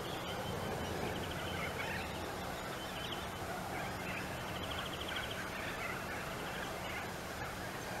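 Wild birds calling, with several quick chattering trills, over a faint steady low hum.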